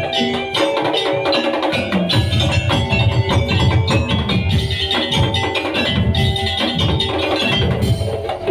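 Madurese daul (tong-tong) percussion ensemble playing a driving rhythm: heavy drum strokes under wooden slit-drum knocks and pitched melodic percussion.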